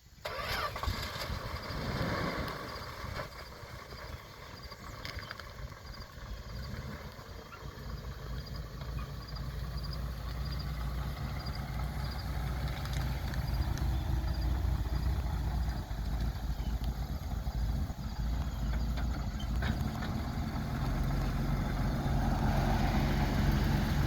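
A 1987 Dodge Dakota 4x4 pickup's engine starting up and then idling steadily, growing louder toward the end.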